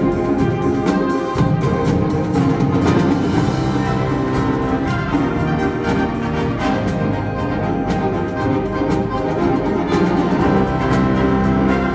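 School wind ensemble (concert band) playing live: sustained chords in the woodwinds and brass over percussion.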